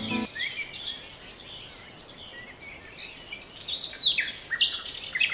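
Birds chirping and calling: many short whistled notes sweeping up and down, sparse at first and busier and louder from about four seconds in, with a thin steady high tone behind them. Background music cuts off just after the start.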